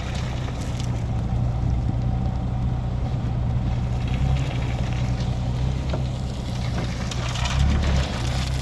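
Dump truck engine running steadily at low speed with a low, even hum and no revving.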